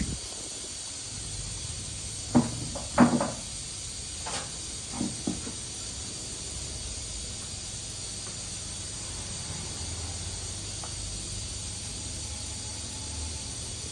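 A few short knocks and clunks, two louder ones close together followed by a few softer ones, over a steady hiss.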